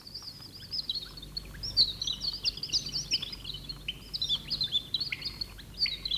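Many small birds chirping and twittering together in quick, short, high calls that overlap without a break.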